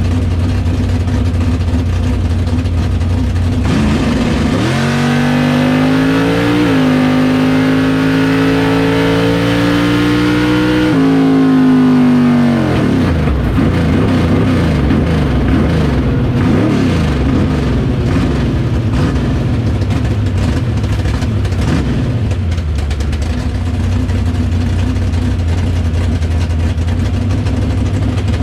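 Drag race car engine at full throttle on a pass: idling, then launching about four and a half seconds in with the revs climbing, a gear change about two seconds later, more climbing, then the throttle cut about eleven seconds in with the revs falling away, running on at lower revs after the run.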